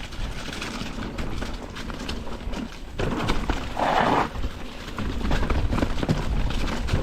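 Downhill mountain bike clattering over a rough, rocky trail: irregular knocks and rattles from tyres, chain and frame, with a louder rush of noise about three to four seconds in.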